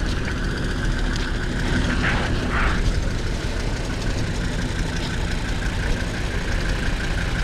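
Quad bike engine running steadily at low revs, with a constant low rumble.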